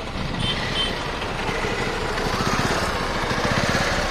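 An old car's small engine running with a steady, rapid, even exhaust beat. Two short faint beeps come in the first second.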